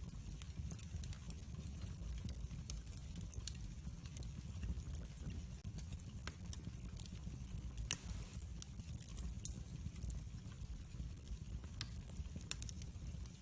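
Wood fire burning in a fireplace: a steady low rumble of flames with frequent sharp crackles and pops, one louder pop about eight seconds in.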